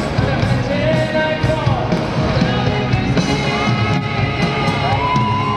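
Live hard rock band playing together with a symphony orchestra, loud and steady. A regular drum beat runs under sliding, wavering melody lines.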